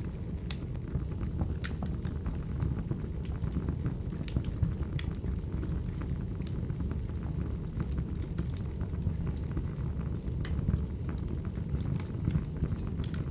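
Wood fire burning: a steady low rumble of flames with sharp crackles and pops scattered about once a second.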